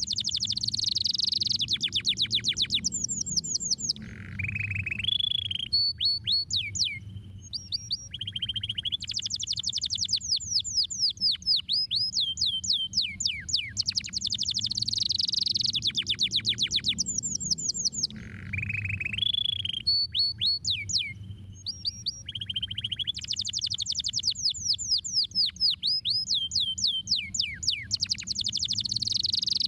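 Domestic canary singing: long fast trills of rapidly repeated falling notes, broken now and then by lower buzzy rolls and short pauses, over a steady low hum.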